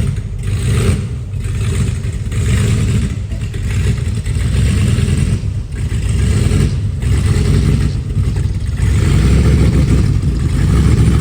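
De Tomaso Pantera's 5.8-litre Ford V8 running and being revved repeatedly, the exhaust swelling and dropping back several times.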